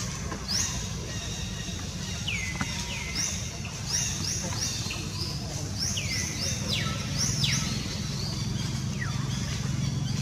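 A bird calling over and over: short high whistles that sweep down in pitch, often two or three in quick succession, every second or two, over a steady low rumble.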